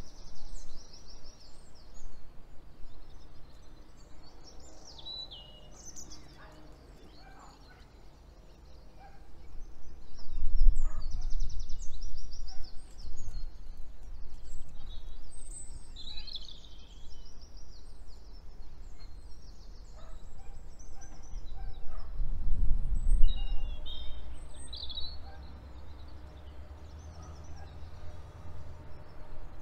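Songbirds singing: repeated short chirps and rapid trills throughout. Under them a low rumble swells loudly twice, about ten seconds in and again about twenty-two seconds in.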